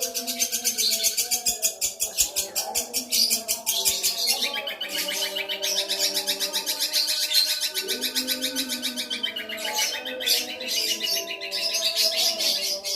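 Long-tailed shrike (cendet) singing a long, rapid chattering song: fast runs of repeated high notes, broken by short pauses.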